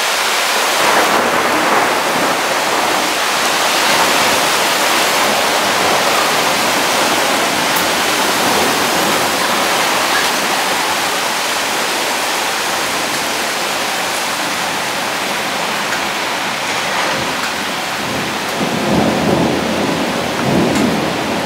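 Heavy rain pouring steadily in a thunderstorm, an even hiss, with a low rumble of thunder swelling up near the end.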